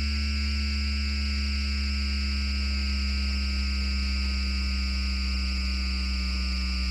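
Electromagnetic noise from a Bombardier Flexity Outlook tram's MITRAC IGBT VVVF traction inverter, picked up through a radio: a steady low hum under a cluster of high whining tones that slowly fall in pitch.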